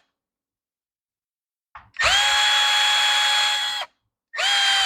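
Power drill running with a steady whine that spins up quickly, once for nearly two seconds and again briefly near the end, driving out the fasteners to take the tiller's carburetor off.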